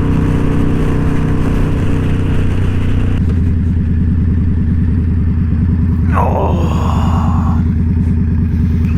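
Indian Scout Bobber's V-twin engine running steadily while riding, its note changing about three seconds in. A short sound with a falling pitch comes a little past the middle.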